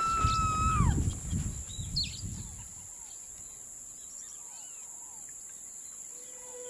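Battle sounds fade out: a low rumble dies away over the first two or three seconds, and a high held tone bends downward and stops about a second in. Then birds chirp over a steady high-pitched whine, and a soft music note comes in near the end.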